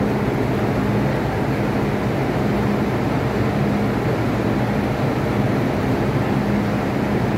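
MTR electric train running at the station platform: a steady rumble with a low hum that fades in and out.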